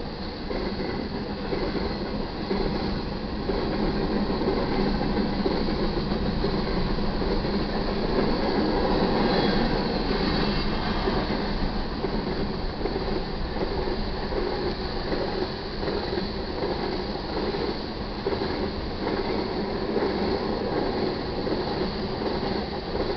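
Freight cars of a manifest train rolling past, a steady rumble and clatter of steel wheels on the rails, loudest about nine seconds in.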